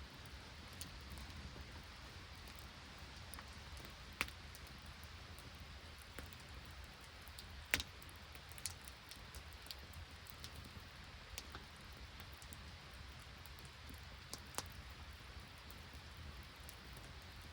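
Light rain hissing steadily, with sharp, irregular pops and crackles from an open wood campfire; the two loudest pops come about 4 and 8 seconds in.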